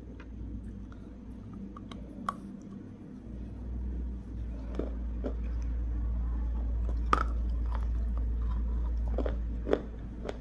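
Biting into and chewing a KitKat chocolate wafer bar: sharp crunches of the wafer between quieter chewing, the loudest crunches a little past the middle and near the end. A low rumble runs under it from about three seconds in.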